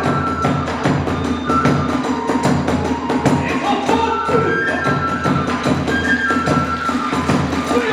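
Hiroshima kagura hayashi: drums and hand cymbals struck in rapid, steady strokes under a bamboo flute playing held high notes with slides.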